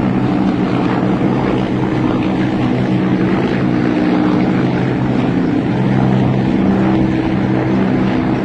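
Military helicopters flying overhead: a steady drone of rotors and engines with several low tones that shift slightly in pitch.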